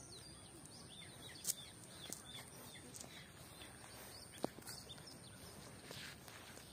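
Faint rural outdoor ambience with small birds chirping here and there, and a sharp click about a second and a half in and another a little after four seconds.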